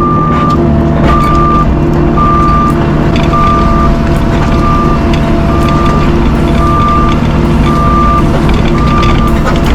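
Backup alarm on a diesel construction machine beeping steadily, about once a second, over the loud running of the engine.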